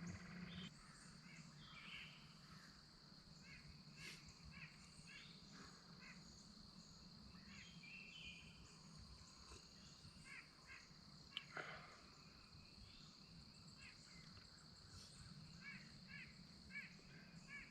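Faint birdsong outdoors in the early morning: scattered short chirps from birds, over a steady high-pitched hum.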